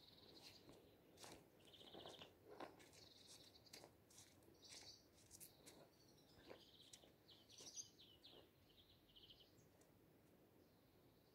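Faint bird calls: short trills, each about half a second long, repeating every second or two, with a few faint sharp taps in between.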